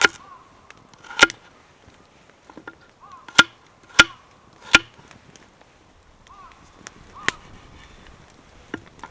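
Firewood being chopped: six sharp strikes at uneven intervals, the loudest in a quick run of three in the middle.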